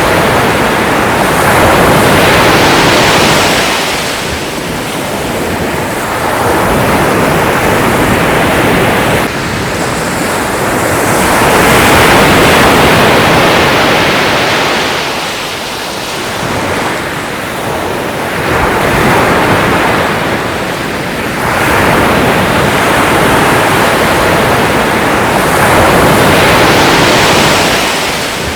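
Sea waves washing in, a steady rushing surf that swells and eases every few seconds.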